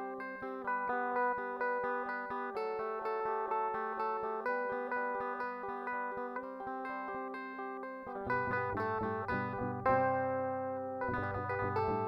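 Guitar music: plucked notes in a steady pattern of about four a second, with lower notes coming in about eight seconds in.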